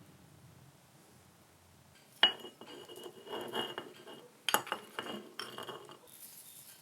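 Dishes and utensils being handled: a sharp clink with a short ringing tone about two seconds in, some clattering, then a second sharp clink about two seconds later.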